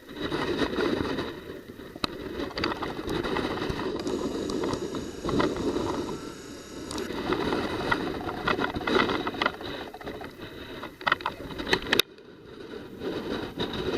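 Typhoon wind gusting hard against the microphone with surf in a harbour, an uneven rumbling noise broken by crackles and buffeting that dips briefly about twelve seconds in.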